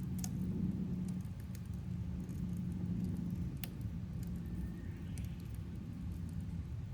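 Campfire crackling, with sharp pops every second or so over a steady low rumble and hum.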